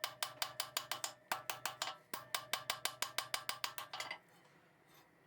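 Cross-peen hammer striking hot steel on an anvil in quick, even blows, about five a second, each with a bright metallic ring, thinning and consolidating a forge-welded blade of steel shot. The hammering pauses briefly twice and stops about four seconds in.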